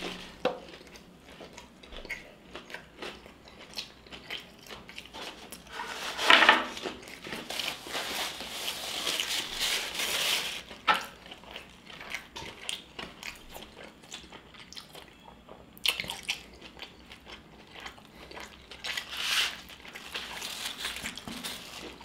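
Close-up eating of a fried chicken sandwich: biting and chewing with many small clicks, the loudest crunching bite about six seconds in.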